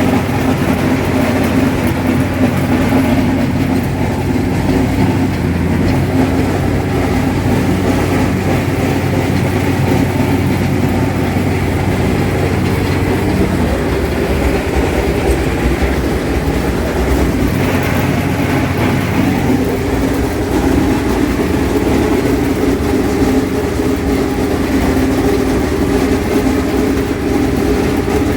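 Allis-Chalmers 7000 tractor's diesel engine working under load while its John Deere 1209 haybine clatters along cutting hay, a loud, steady machine racket. The engine note shifts about halfway through.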